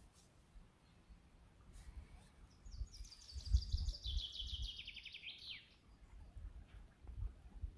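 A songbird singing one song of about three seconds: a rapid run of notes falling in pitch, ending in a brief flourish. Low rumbles of wind on the microphone come and go underneath.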